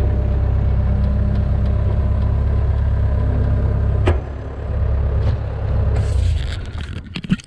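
A vehicle engine running with a steady low rumble, with one sharp knock about four seconds in, after which it runs quieter. A few clicks and clatters follow near the end.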